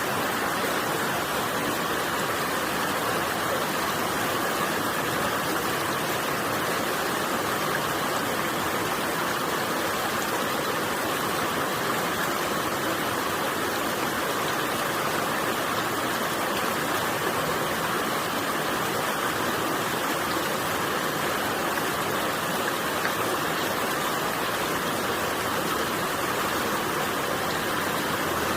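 Mountain stream water rushing steadily over rocks, an even, unbroken rushing sound.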